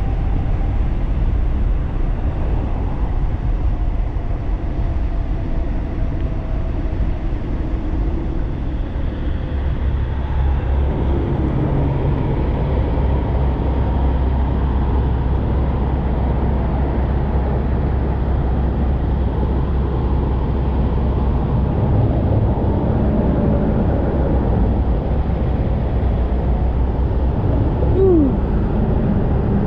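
Wind rushing over the microphone of an electric bike moving at speed, a steady low rumble mixed with road and traffic noise.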